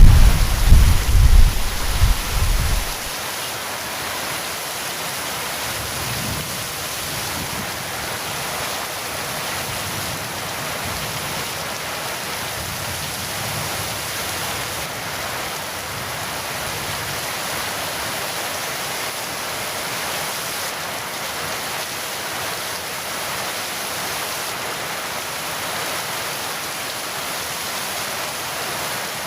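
Heavy rain falling steadily, with the deep tail of a thunder rumble that dies away about three seconds in.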